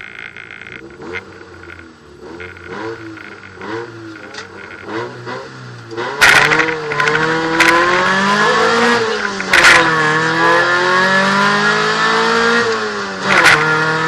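VW Golf II 16V rally car's 16-valve four-cylinder engine heard from inside the cabin: revving in short blips while held at the start, then launching hard about six seconds in and accelerating through the gears, its pitch climbing and dropping back at each upshift, twice.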